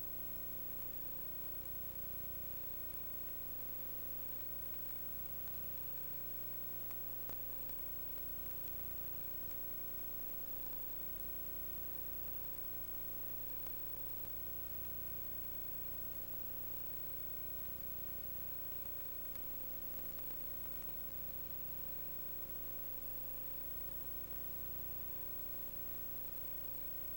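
Steady electrical hum and hiss with a few faint fixed tones. No distinct event.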